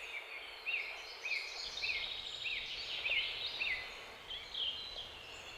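Birds calling outdoors: a short rising-and-falling chirp repeated about every half second, with fainter chirps and twitters higher up behind it.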